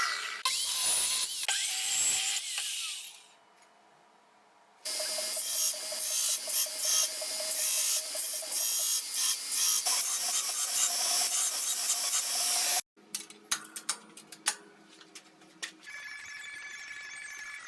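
Metal-fabrication work on steel in quick cuts: a power tool running against the metal, a brief near-silent gap about three seconds in, the tool again for several seconds, then a run of sharp clicks and taps and a quieter steady tone near the end.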